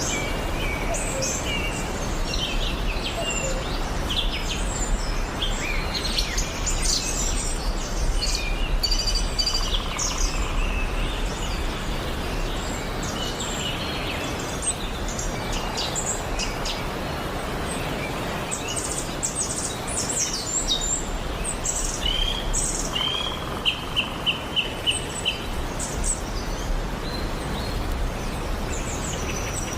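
Wild birds chirping and calling, many short whistled notes overlapping, with one bird giving a run of about six quick repeated notes a little after the middle. A steady low background noise runs underneath.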